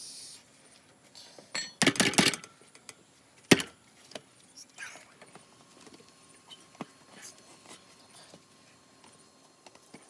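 Metal hand tools clattering and clinking for about half a second, then one sharp clack a second later, followed by a few faint ticks.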